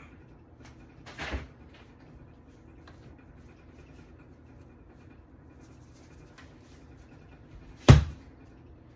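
Faint scattered clicks and handling sounds, a short scrape about a second in, then one sharp, loud knock near the end.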